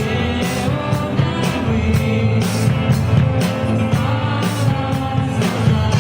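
Rock band playing live: guitars and bass over a drum kit keeping a steady beat, about two hits a second.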